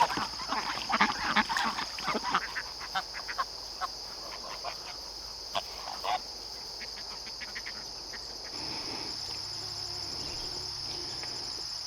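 Ducks quacking, a flurry of calls in the first few seconds thinning to a few scattered ones, over a steady high trill of crickets.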